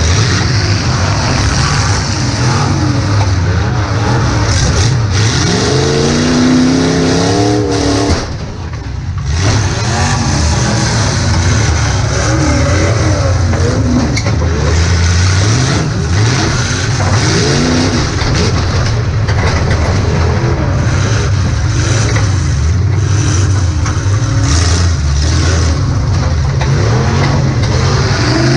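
Demolition derby car's engine revving hard and letting off over and over, heard from inside the car, its pitch rising and falling. The noise drops briefly about eight seconds in, then picks up again.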